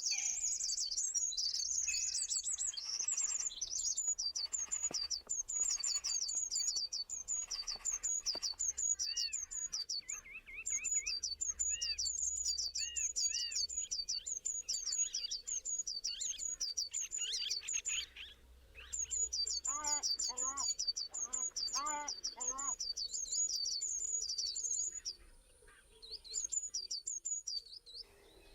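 Birds chirping: one bird repeats a rapid, high series of short chirps, several a second, with two short pauses in the second half. Lower chirps from another bird come in now and then.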